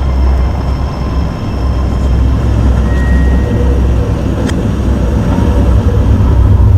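A loud, steady low rumble that grows slightly louder toward the end, with a faint click about four and a half seconds in.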